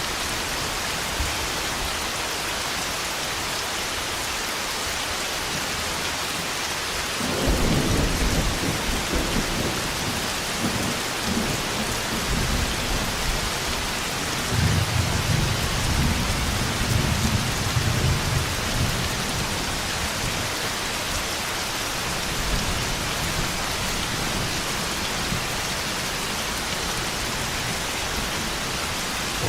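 Steady rain with rolling thunder. A deep rumble breaks in suddenly about a quarter of the way through, and a second loud rumble comes about halfway; each dies away over several seconds.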